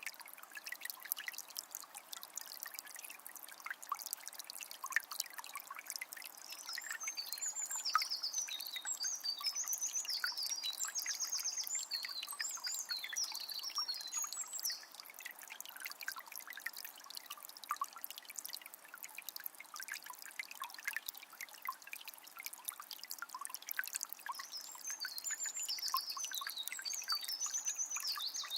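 Water of a small spring trickling and splashing steadily, with many small drips. A songbird sings a long rapid, high warbling phrase about six seconds in, and again near the end.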